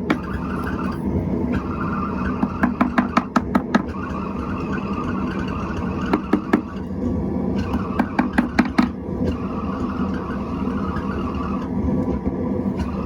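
Leather mallet beating a hot steel stair-twist bar laid on a pine block to straighten it: quick runs of blows, several a second, in three bursts, over a steady whirring background noise.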